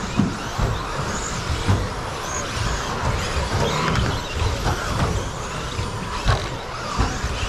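Pack of 1/10-scale electric RC stadium trucks with 13.5-turn brushless motors racing around a carpet track: several motors whining, rising and falling in pitch, over a steady noise of tyres and the hall, with occasional short low thumps.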